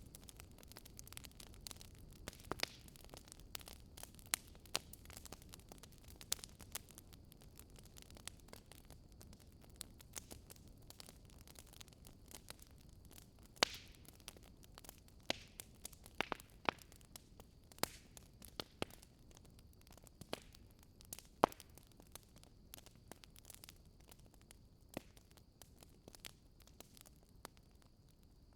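Bonfire crackling as the wood burns: irregular sharp pops and snaps over a low hiss. The loudest pops come about halfway and about three-quarters through.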